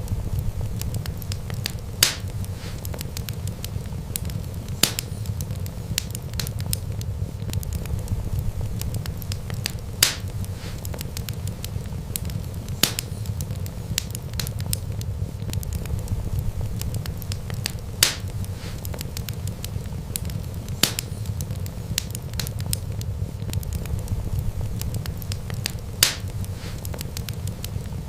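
Wood fire crackling, with sharp single pops every few seconds over a steady low rush of the flames.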